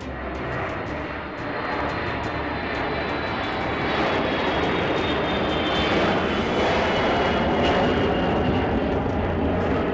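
Jet engines of a Boeing E-3A AWACS running at high power for takeoff: a loud, dense rush with a thin turbine whine on top, growing louder over the first few seconds and then holding steady.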